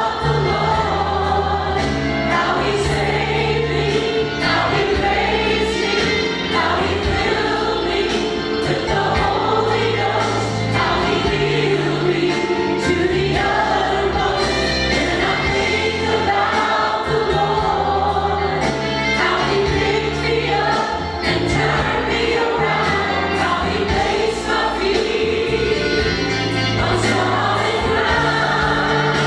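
Choir singing a gospel worship song over instrumental backing with a steady beat.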